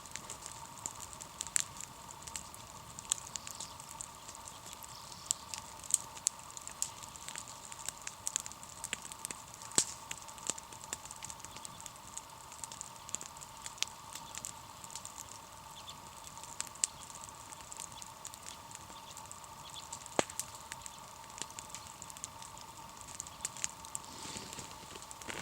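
Wood campfire crackling, with sharp irregular pops and snaps over a faint steady hum.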